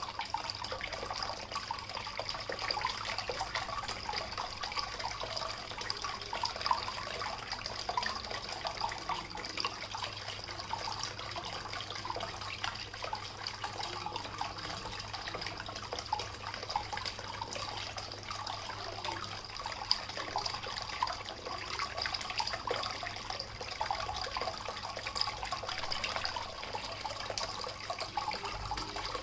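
Water from a small terracotta-pot waterfall fountain, fed by an aquarium pump, splashing and trickling steadily.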